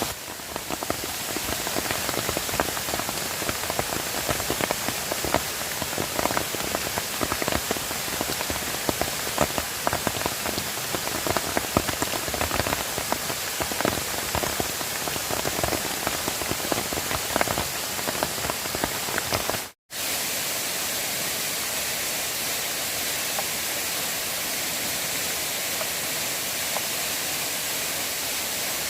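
Heavy rain falling, with many separate drops striking close by. About two-thirds of the way through, the sound cuts off suddenly and gives way to a smoother, steady rushing of water.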